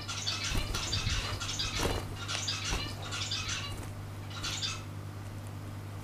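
Small cage bird twittering in quick runs of high chirps that stop about five seconds in, over a steady low electrical hum.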